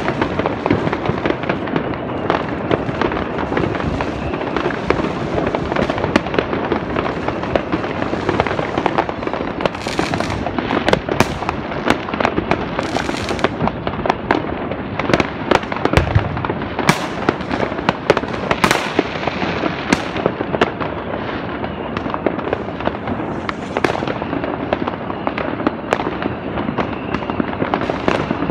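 Many fireworks going off at once in the distance: a dense, unbroken crackle of bangs and pops, with a few short hisses and one deeper boom about sixteen seconds in.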